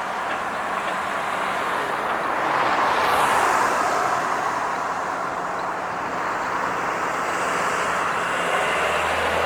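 Road traffic: steady tyre-and-engine noise from passing cars, swelling as a car goes by about three seconds in with a falling hiss.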